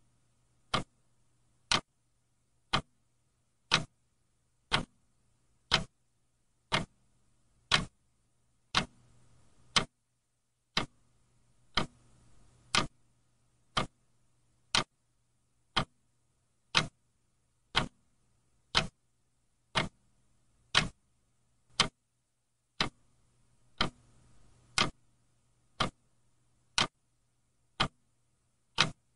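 Clock ticking steadily, one sharp tick every second.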